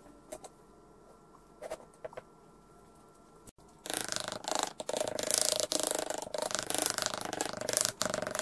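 Brush scrubbed rapidly back and forth over a mask pattern bedded in casting sand: a loud, dense brushing that starts about four seconds in. Before it, only a few faint knocks.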